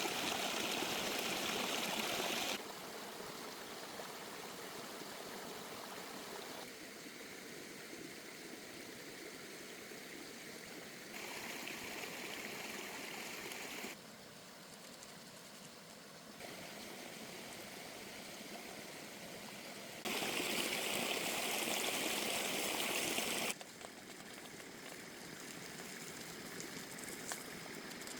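Running water of a mountain stream, a steady rushing hiss whose loudness and brightness change abruptly about six times, louder at the start and again about two-thirds of the way through.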